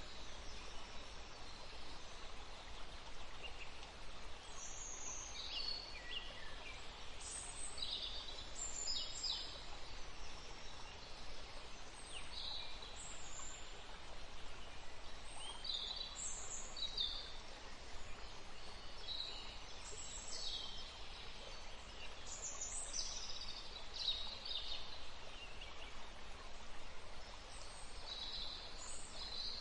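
Forest stream flowing steadily, with small songbirds giving short, high chirps and call notes scattered throughout.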